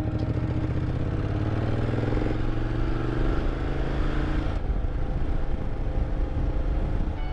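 Motorcycle engine under way, its pitch rising steadily as it accelerates for about four and a half seconds. The throttle then eases off and the engine settles to a lower, steady rumble.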